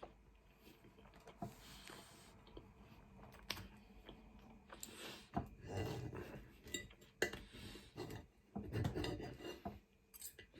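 Cutlery clinking and scraping against a plate as food is cut and scooped, a string of short sharp clicks with a few longer scrapes.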